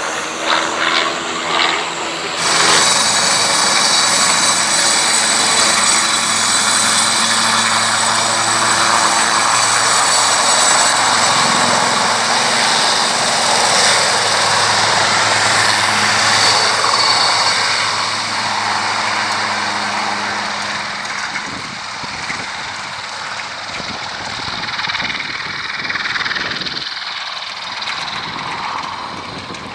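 An aircraft flying past, its engine noise coming in suddenly and loud, holding for about fifteen seconds, then fading to a lower level.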